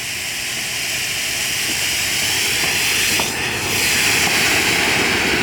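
Firework fountain spraying sparks with a steady hiss that grows louder past the middle and dies away just after.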